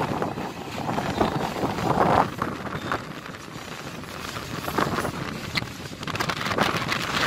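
Indian Railways passenger train running, heard from the open doorway of one of its coaches: a steady rumble of wheels on the track with irregular clanks as the wheels cross rail joints and points, and wind buffeting the microphone.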